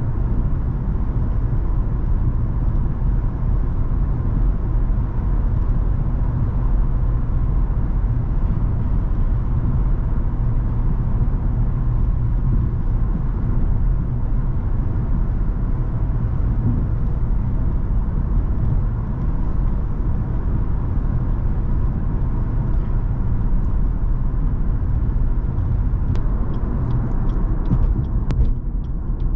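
Cadillac CTS 3.6 twin-turbo V6 car being driven at a steady pace, a constant low engine and road rumble with no revving. A few faint clicks come in near the end.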